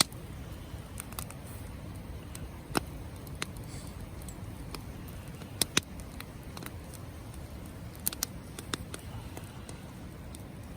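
Wood campfire crackling, with irregular sharp pops of burning wood over a low steady rumble, a few louder pops about three, six and eight seconds in.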